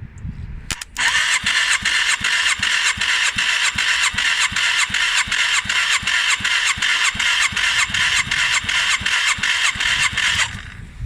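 Yamaha DragStar 400 air-cooled V-twin engine cranked by its electric starter for about nine seconds: a steady starter whine with even compression pulses, about four a second. It stops suddenly without the engine catching.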